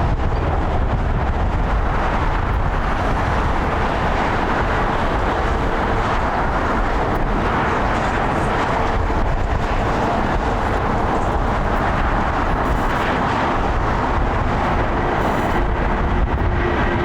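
Jet engines of a Boeing 787 Dreamliner airliner, a loud, steady roar with a deep rumble underneath.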